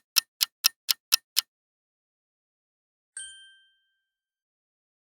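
Quiz countdown sound effect: a timer ticking about four times a second, stopping about a second and a half in, then a single bright ding about three seconds in marking the end of the answer time.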